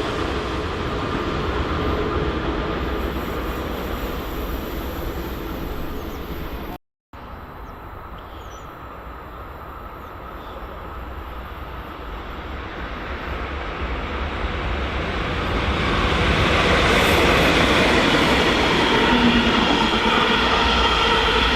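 A train running past and fading away, then a sudden cut about seven seconds in. After it another train approaches, growing louder, and runs past close by in the second half.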